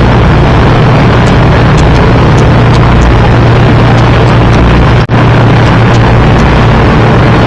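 Motorboat engine running at speed, a steady low drone under a loud rush of wind and water. The sound drops out for an instant about five seconds in.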